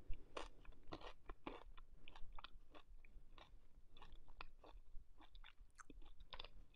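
A person chewing a bite of thin, crispy cauliflower-crust pizza: faint, irregular crunches.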